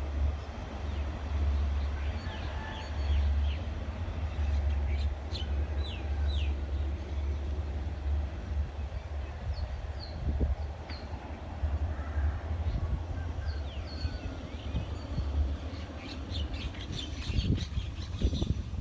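Small birds chirping in short, repeated downward-sliding calls over a steady low rumble.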